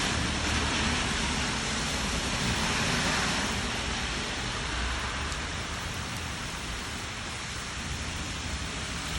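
Steady rain coming down, an even hiss that eases a little in the second half.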